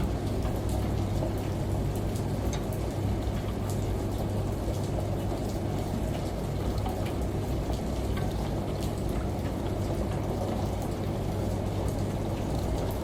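Falling water with scattered drop sounds, layered over a washing machine's low, steady hum.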